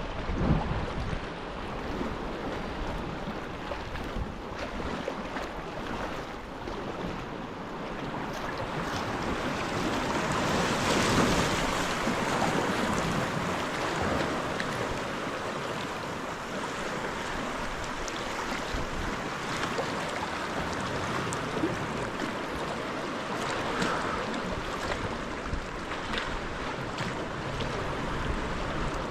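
Sea waves and water splashing around a sea kayak, with wind buffeting the microphone; the water noise swells about ten seconds in.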